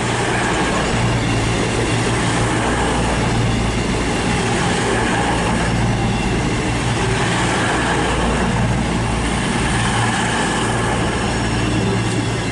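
Class 221 Super Voyager diesel-electric unit standing at the platform with its underfloor diesel engines idling: a steady, even running hum.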